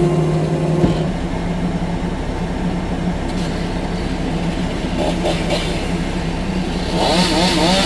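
Tracked skid steer loader's diesel engine running under steady work. The engine note drops and changes about a second in, and a wavering higher whine joins near the end.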